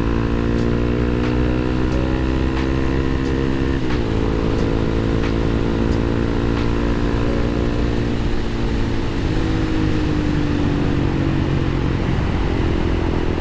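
Motorcycle engine under way: the revs climb, drop briefly at a gear change about four seconds in, climb again, then fall away as the bike slows, with steady wind and road noise underneath.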